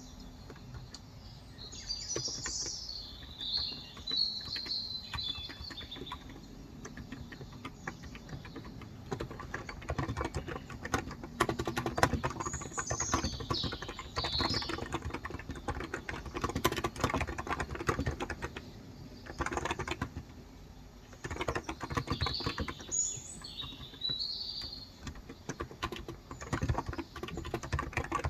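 Typing on a Cox Endeavour electro-capacitive (Topre-style) 35 g tenkeyless keyboard: runs of keystrokes that grow denser after the first third, with a brief pause about two-thirds through. Birds chirp in the background in three short bursts of song.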